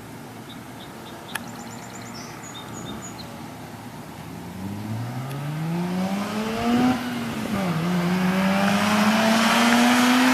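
Mazda RX-8's rotary engine accelerating, its pitch climbing and getting louder. About seven seconds in there is a brief drop in pitch at an upshift, then it climbs again.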